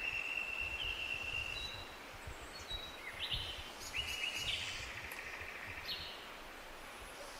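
Songbirds singing in a forest: a long held whistled note in the first two seconds, then trilled phrases about three to five seconds in, over a steady low background rumble.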